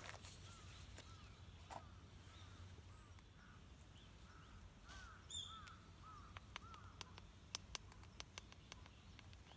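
Crows cawing faintly in a repeated series, then a few sharp clicks near the end.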